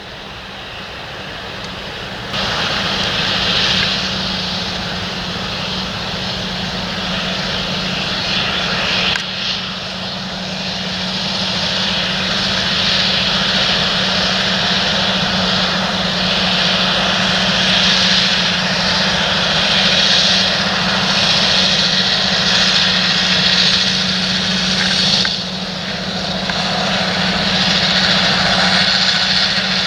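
Large John Deere tractor's diesel engine running steadily under load while working the field, growing louder over the first few seconds as it draws nearer.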